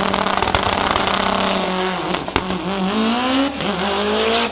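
Race car engine running hard, holding a steady pitch, then dipping and climbing steadily in pitch through the second half, with one sharp pop about two and a half seconds in.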